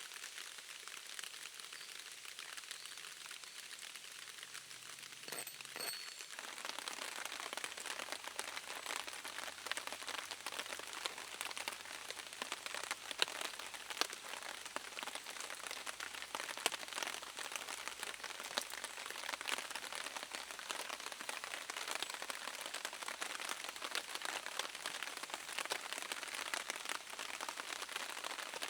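Steady rain pattering, which grows denser and louder about six seconds in, with a few sharper drop hits.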